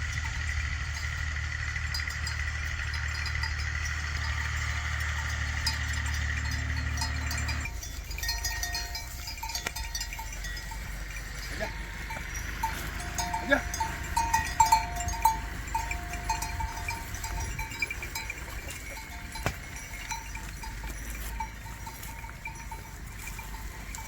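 A steady low engine hum runs for about the first eight seconds, then breaks off abruptly. Bells on working oxen then jingle and clink in irregular bursts, busiest around the middle.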